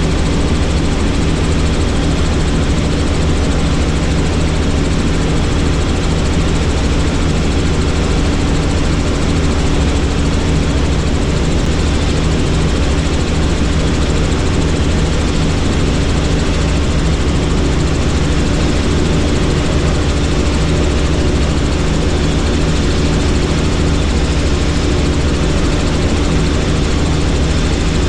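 Helicopter in steady flight, heard from on board: a loud, even rotor and engine noise, with a set of steady low tones over a wide rushing hiss.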